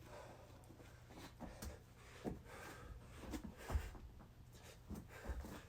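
Heavy breathing and several dull thumps of hands and feet landing on the floor during a burpee. The loudest thump comes a little past the middle.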